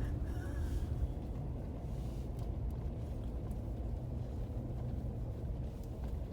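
Car driving on a snow-covered road, heard from inside the car: a steady low rumble of engine and tyres.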